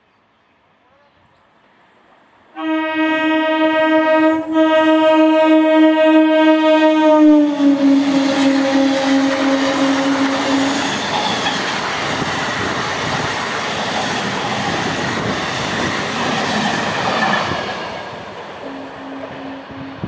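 EMU local train sounding a long horn as it comes up, the horn dropping in pitch as the train passes close. The rush and clatter of its wheels on the rails follows and fades away near the end.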